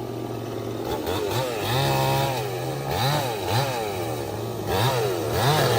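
Chainsaw idling steadily, then revved up and let back down several times from about a second in, the engine pitch rising and falling with each blip.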